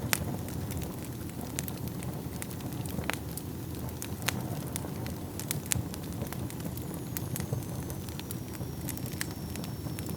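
Wood fire burning in a fireplace: a steady low rumble of flames with sharp, irregular crackles and pops, the loudest right at the start. A faint thin, high whistle sets in about two-thirds of the way through.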